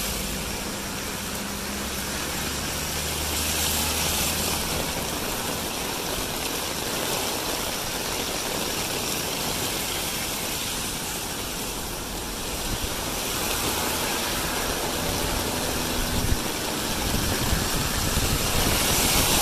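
The Clariano river in flood, a torrent of floodwater rushing past with a steady, loud noise.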